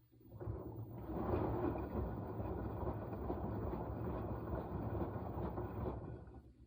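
Washing machine drum turning during a wash cycle, laundry and water churning for about six seconds and then stopping: one turn of the wash rhythm, with pauses between turns.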